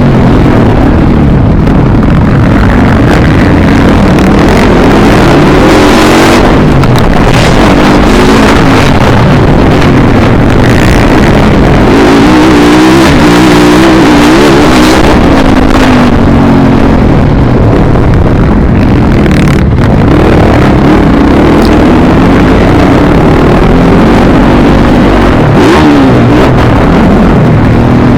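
Dirt bike engine revving up and down again and again as it is ridden around a motocross track, very loud throughout.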